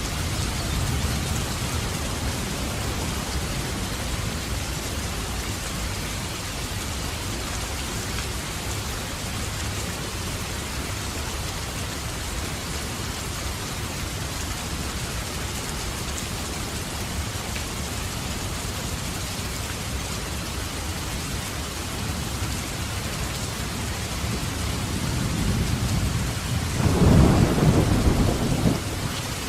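Steady heavy rain falling, with a low thunder rumble building near the end and peaking a couple of seconds before it fades.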